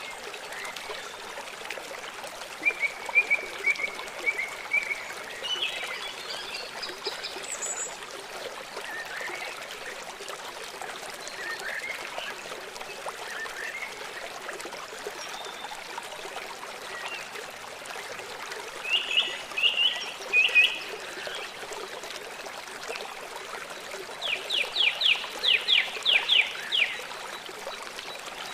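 Small songbirds chirping in short phrases over the steady rush of running water. Near the end comes a quick series of about ten clipped notes.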